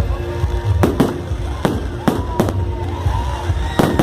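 Fireworks going off: about five sharp bangs at uneven intervals, with whistling tones that bend and glide between them.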